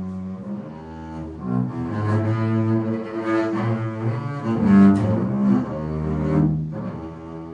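Solo bowed string instrument playing a contemporary piece in a low register: sustained, overlapping notes that shift pitch every second or so, swelling to a loud peak about five seconds in.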